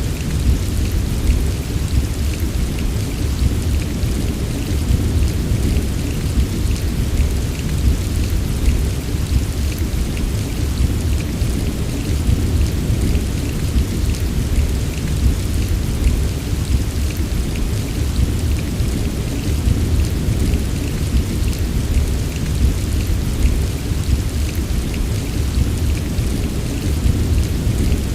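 Steady heavy rain, a dense patter of drops over a constant deep rumble, with no distinct thunderclap.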